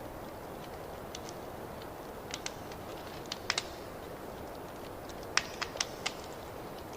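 Fireplace wood fire crackling: a steady low rush of flames with irregular sharp pops and snaps, in small clusters after about two seconds and again after five.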